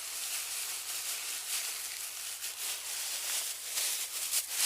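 Dry oat flakes rattling and rustling as they are shaken out of a packet into groundbait, a steady scratchy rustle that stops suddenly at the very end.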